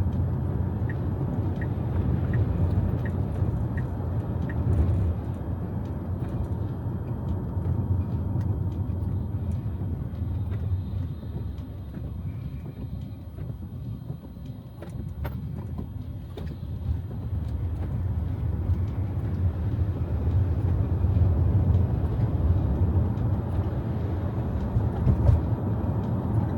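Steady road and tyre noise heard inside the cabin of an electric Tesla driving at freeway speed on a rain-soaked road. The noise dips for a few seconds about halfway through. A short run of faint, evenly spaced ticks sounds near the start.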